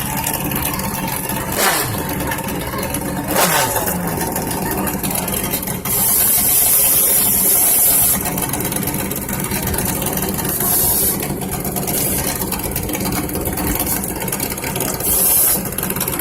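Drag-racing motorcycle engines idling, with two quick revs that fall away, about two and three and a half seconds in. A loud hiss rises for about two seconds in the middle and returns briefly twice later.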